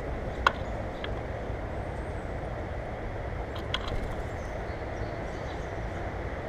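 Steady low outdoor rumble with a few brief, sharp clicks, the clearest about half a second in and another around four seconds in.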